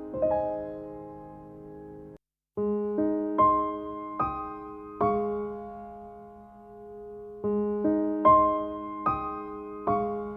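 Calm background piano music: single notes and chords are struck and left to ring and fade. The sound cuts out completely for a moment about two seconds in.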